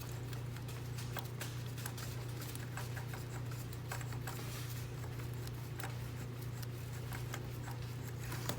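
Faint, irregular clicking of a ratchet wrench and socket working a spark plug loose in a Subaru engine's cylinder head, over a steady low hum.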